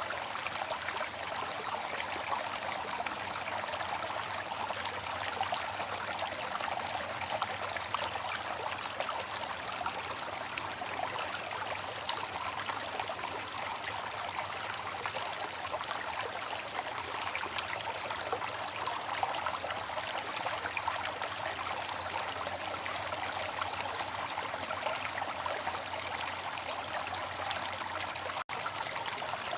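Water fountain splashing and trickling steadily, with a momentary break in the sound about a second before the end.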